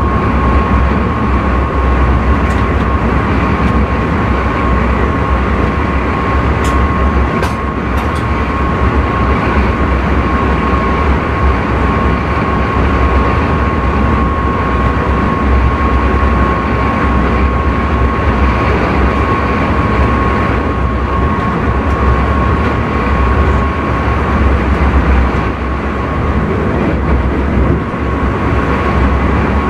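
Intercity train running at speed, heard from inside the driver's cab: a steady rumble and rush with a thin, steady high whine. A few short sharp clicks come about seven to eight seconds in.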